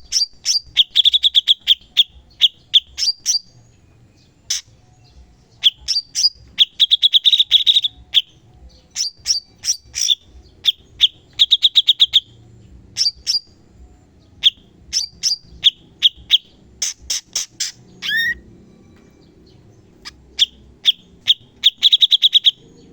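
Cucak cungkok bulbul singing loud, fast bursts of sharp chirps and rattling trills, repeated phrase after phrase with short pauses, with one brief gliding whistle near the end.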